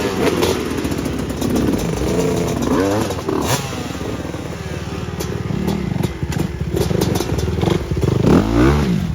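Motorcycle engine revving up and down as the rider sets off and rides, its pitch rising and falling several times.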